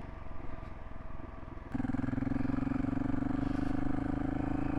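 Single-cylinder dual-sport motorcycle engine running at low revs, then opened up about a third of the way in, holding a louder, steady note under load.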